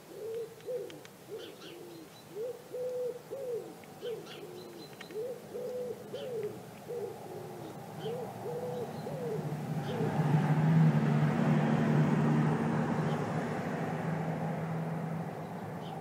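A bird gives a regular run of low hooting, cooing calls, about two a second, for the first nine seconds or so. From about ten seconds a passing motor vehicle's engine and tyres come in as a low hum and rumble, which is the loudest thing here and slowly fades.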